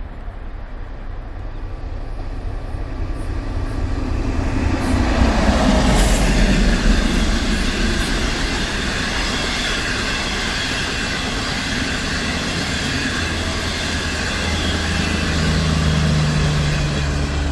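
Train running past on the rails: the rumble builds over the first few seconds to a peak about six seconds in, with a few sharp clicks, then carries on steadily, with a low steady hum joining near the end.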